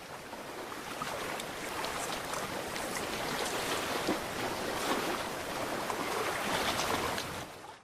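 Sea water washing over a rocky shore, a steady hiss that fades out near the end.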